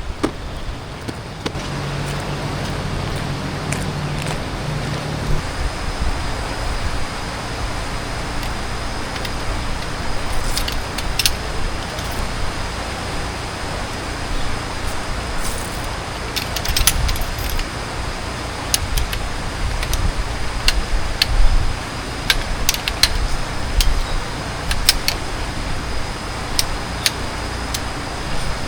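Light metallic clinks and rattles at irregular intervals over a steady background hiss, with a thin steady high tone coming in about a fifth of the way through.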